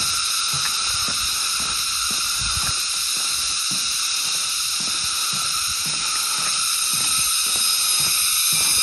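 Water running steadily with a hissing rush, with small sloshing splashes and drips underneath.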